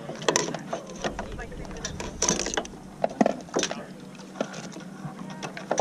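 Irregular clicks and clunks of oars shifting in their oarlocks in an eight-oared rowing shell while the crew sits holding, over a steady low hum.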